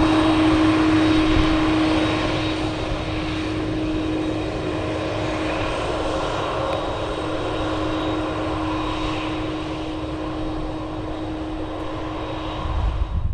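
Boeing 747-400F's four jet engines at takeoff power, a steady engine noise with a strong steady hum through it, slowly fading as the aircraft moves away.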